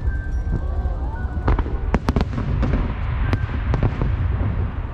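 Fireworks going off across the river: a quick run of sharp bangs and pops, bunched between about one and a half and four seconds in, over a steady low rumble.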